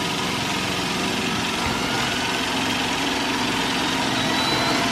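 iRobot Roomba s9+ robot vacuum running, a steady motor drone with faint whining tones that slowly rise in pitch.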